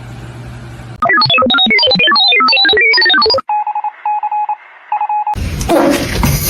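Electronic phone-like tones: a fast run of rapidly changing beeping notes, then a steady beep repeated several times.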